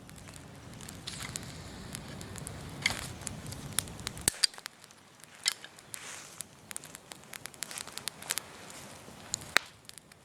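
Outdoor bonfire crackling, with irregular sharp pops and snaps. A low background rumble cuts off suddenly about four seconds in.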